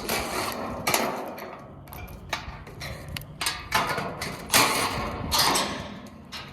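Hand work on parts and wiring: a run of sharp clicks, knocks and scraping of uneven spacing.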